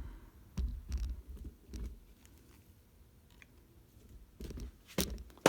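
Handling noise: a few soft bumps and light clicks, with a sharp click near the end as something is set in place.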